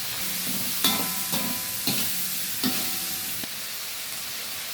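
Chicken and prawns with chicken stock just poured in, sizzling in a hot pan while being stirred. A utensil knocks against the pan three times, about a second apart, and the sizzle eases near the end.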